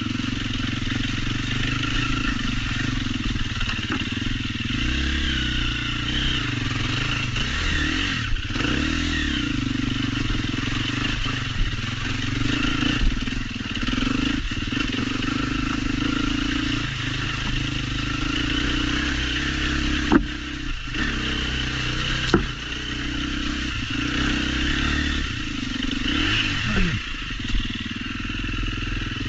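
Off-road trail motorcycle engine running under the rider, its pitch rising and falling with the throttle, mixed with a steady rush of noise. A few sharp knocks and some clatter from the bike on rough ground.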